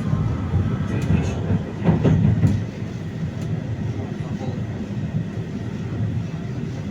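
A Vityaz-M (71-931M) low-floor tram running along the track, its wheels rumbling on the rails, with a few sharp clicks and knocks between about one and three and a half seconds in.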